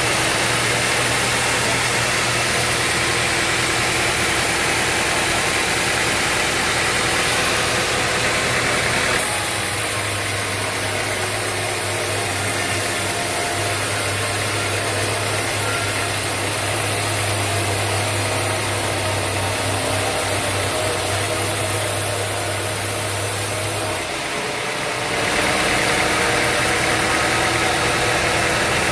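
Sawmill machinery running steadily, a loud engine-like hum with a noisy hiss over it. The sound changes abruptly about nine seconds in and again near the end.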